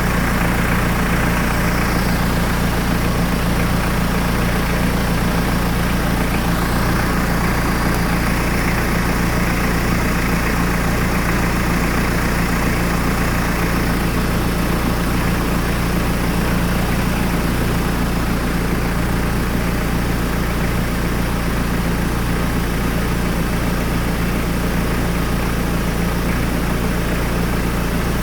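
Hyundai D4BH 2.5-litre four-cylinder turbodiesel idling steadily while its oil pressure is checked.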